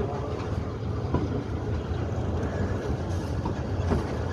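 Passenger train running on the track: a steady low rumble of wheels on rails, with a couple of faint knocks.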